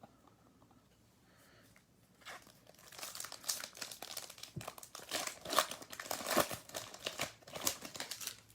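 Crinkling and tearing of a trading-card pack wrapper being opened by hand: a dense crackle that starts a couple of seconds in and runs until just before the end.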